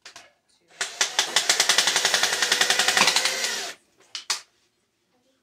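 Cordless power driver running a screw in, with rapid hammering clicks for about three seconds, then two short blips as the screw is snugged down.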